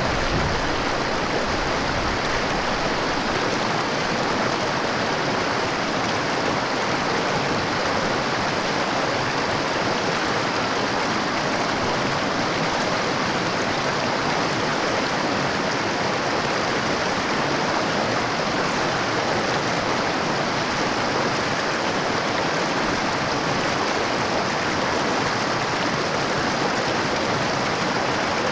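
Mountain river water running over rocks, a steady even rush with no break.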